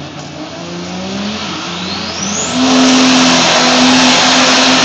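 Diesel drag racing trucks at the starting line revving up, with a rising turbo whistle. About two and a half seconds in, the sound jumps to a loud, steady mix of engine note and tire noise, as in a pre-race burnout.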